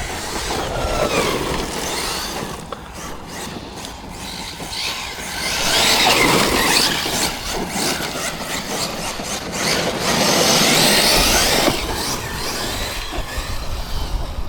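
Electric RC monster truck driving hard: the motor's high whine rises and falls with the throttle over the rush of the tyres on dirt. It swells into two louder runs, about five and ten seconds in.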